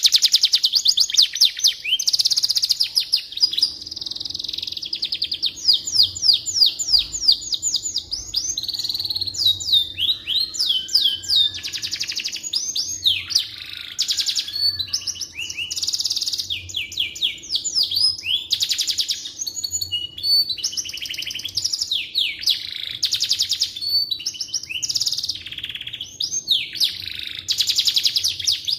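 Domestic canary singing a long, continuous song of rapid high-pitched trills and rolling repeated notes, with only brief pauses between phrases.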